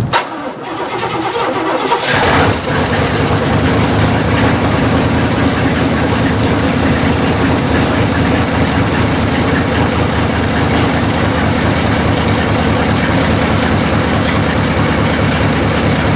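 Cadillac 472 V8 engine starting about two seconds in, then running steadily.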